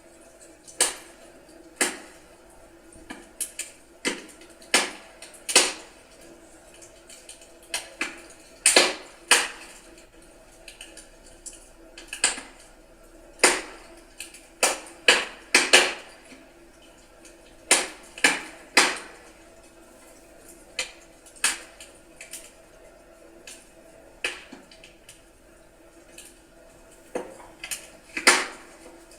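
Wood fire in a fireplace crackling: burning logs give off irregular sharp pops and snaps, about one or two a second, over a faint steady background.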